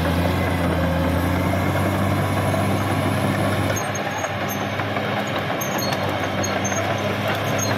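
CAT D6R XL bulldozer's diesel engine running steadily, with the machine's working noise over it; about four seconds in its note shifts slightly lower.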